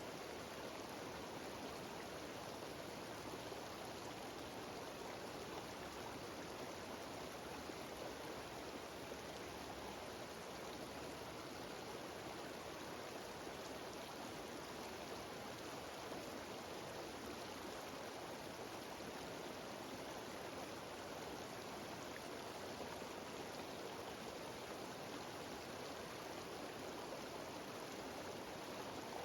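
Mountain waterfall cascading down a stream: a steady, even rush of water that does not change.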